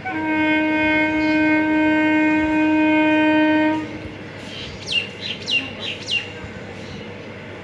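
An ICF EMU local train's horn sounds one long steady note for nearly four seconds, then stops. About a second later, four short falling chirps follow, bird-like.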